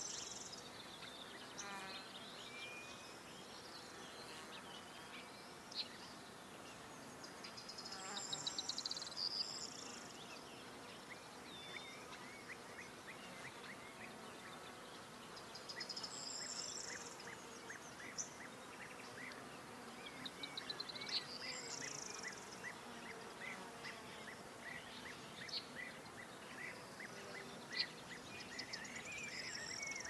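Songbirds singing: one repeats a short, high warbling phrase every several seconds, about five times, amid many short chirps, over a steady faint hiss.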